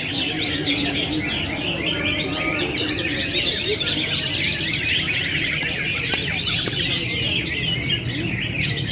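Dense chorus of many songbirds chirping and trilling at once, quick overlapping high-pitched calls with no pause, over a low steady background din.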